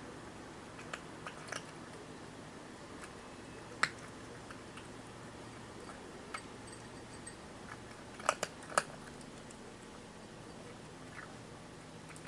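Kitten eating from a dish: scattered sharp crunches and clicks of chewing, with a louder cluster of three about eight seconds in.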